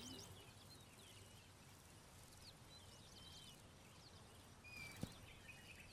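Near silence: faint open-air ambience with scattered short bird chirps and whistles, and one brief faint click about five seconds in.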